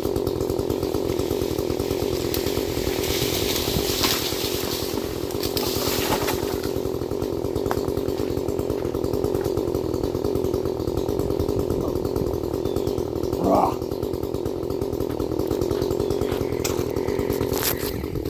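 Chainsaw engine running steadily, with a few faint clicks. About thirteen seconds in there is a brief rising sound, the loudest moment.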